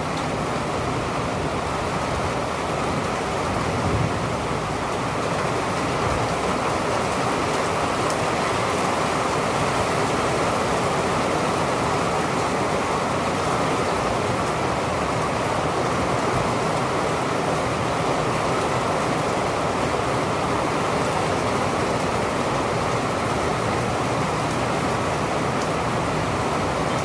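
Steady rain, a dense even hiss that holds level throughout, with a brief louder moment about four seconds in.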